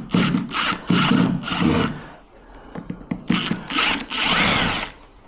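Hand tool working on metal lock parts: a quick run of short scraping strokes, a pause, then one longer scrape from about three seconds in.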